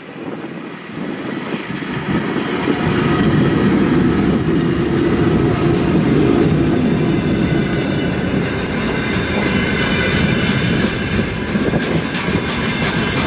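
VL11 DC electric locomotive passing close by at the head of a container freight train, its sound building over the first few seconds. Then the loaded container wagons roll past with a steady rumble and a fast clatter of wheels on the rails.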